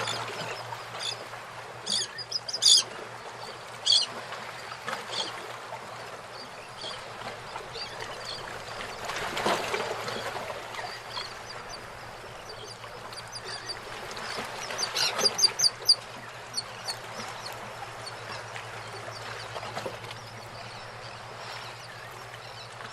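Birds calling in the morning: short, high chirps come in bursts, with a quick run of them about a quarter of the way in and another just past the middle. A steady low hum runs underneath.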